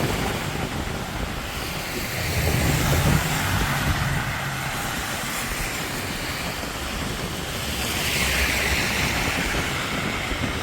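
Traffic on a wet road in steady rain. A vehicle passes with a low rumble about two seconds in, and tyre hiss swells near the end.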